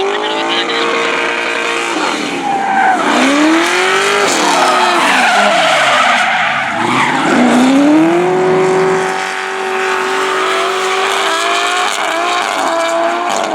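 Drift car engine revving hard, its pitch climbing and dropping several times and then holding high and near-steady from about eight seconds in, over the continuous hiss and squeal of tyres sliding on the tarmac.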